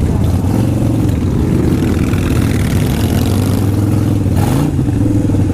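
Motorcycle engine running at low speed as the bike rolls forward, its low steady note rising and falling slightly with the throttle. A short hiss comes about four and a half seconds in.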